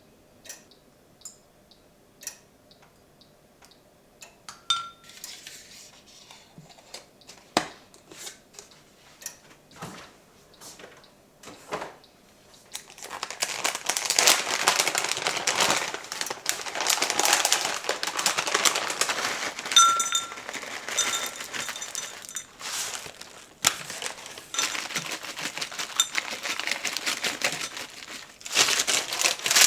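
Scattered light clicks and clinks of small objects being handled, then, from about 13 seconds in, a long stretch of crinkling and rustling like packaging being handled.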